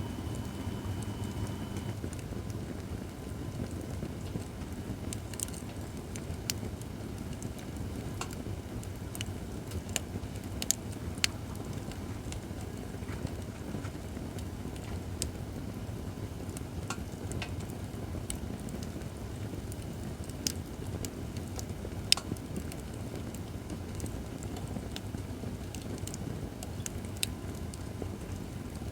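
Acacia firewood burning in a fire pit: a steady low rush of flame with scattered sharp crackles and pops, the loudest about two-thirds of the way through.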